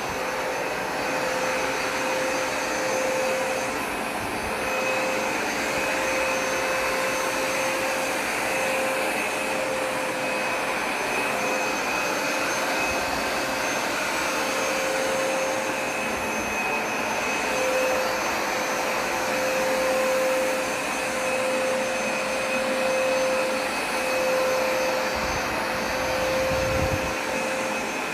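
Hoover Smartwash Pet carpet cleaner running steadily on carpet: a constant motor whine over the rush of its suction.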